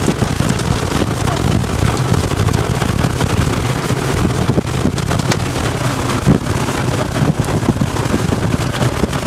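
Loud tornado wind buffeting the microphone: a steady low rumble and roar with scattered short knocks.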